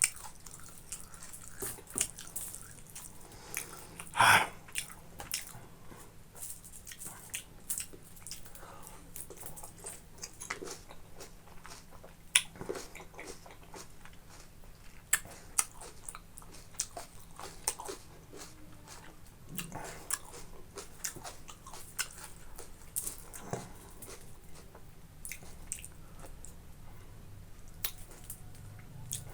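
Close-miked eating: a person chewing and biting boiled pork with rice, with many short wet mouth clicks and smacks, one noticeably louder wet sound about four seconds in.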